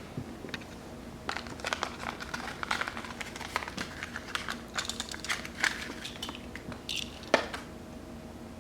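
Plastic-and-cardboard blister packaging of die-cast toy cars crinkling and crackling as it is pried open by hand, in irregular bursts. A sharp snap comes about seven seconds in.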